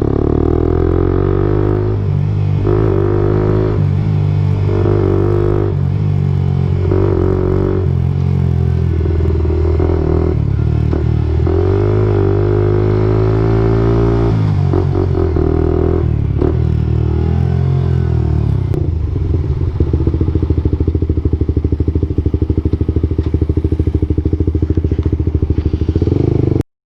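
Suzuki GSX-R125's single-cylinder engine running through an aftermarket exhaust, revved in a series of short throttle blips about every second or two, then settling to a steady idle. The sound cuts off suddenly near the end.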